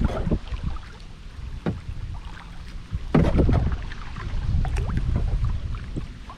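Kayak paddle strokes dipping and splashing in lake water, about one every one and a half seconds, with the strongest splash about three seconds in, over a low rumble.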